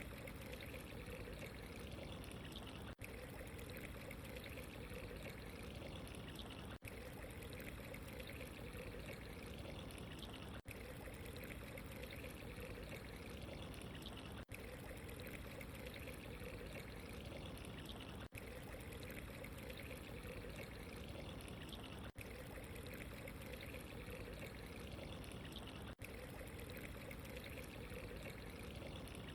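Steady running water, a soft pouring trickle, faint and unbroken except for very short dips about every four seconds, where the ambience loop seems to restart.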